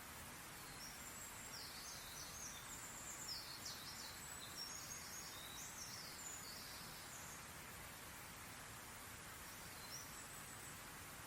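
Faint songbirds chirping and twittering in quick, high-pitched runs for about the first seven seconds, with one more short call near the end, over a steady hiss of outdoor background noise.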